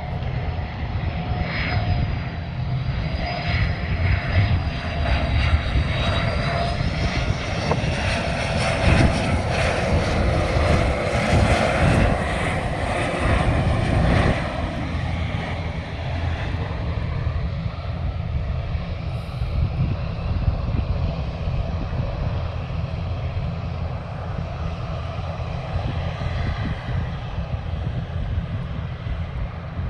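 Jet airliner's engines passing the airfield: a high whine over a rushing sound, swelling to its loudest about halfway through, then fading to a low rumble.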